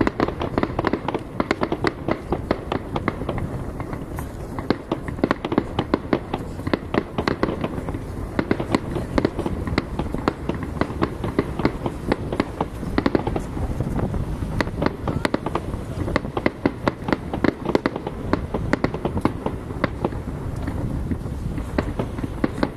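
Aerial fireworks display: a continuous barrage of shell bursts and crackles, bangs following one another several times a second without a pause.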